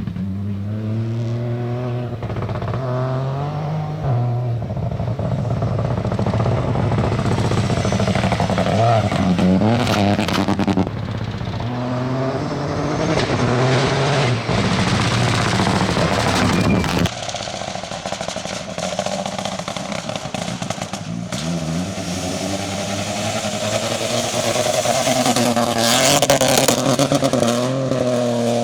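Peugeot 208 Rally4's turbocharged three-cylinder engine driven hard, its pitch climbing through the revs and dropping sharply at gear changes about 4, 11 and 17 seconds in, then rising again near the end, over a steady rush of tyre and road noise.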